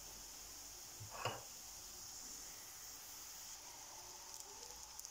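Faint, steady sizzle of spinach gözleme frying in a pan as butter is brushed onto the hot flatbread, with one short brushing sound about a second in.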